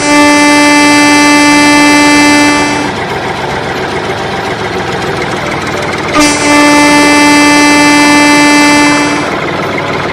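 A vehicle horn sounding two long blasts of about three seconds each, a few seconds apart, over a steady background of vehicle noise.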